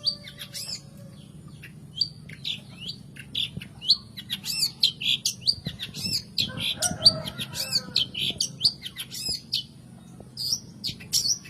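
Long-tailed shrike singing in fast runs of high, quick chirping notes, broken by short pauses around two seconds in and near the end.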